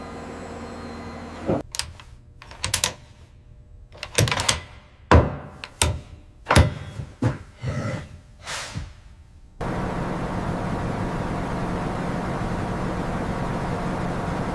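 A steady low machinery hum, then a run of about a dozen sharp clanks and thuds over about eight seconds, some ringing briefly. Near the end the clanking stops and a louder, steady machinery noise with a low hum cuts in abruptly.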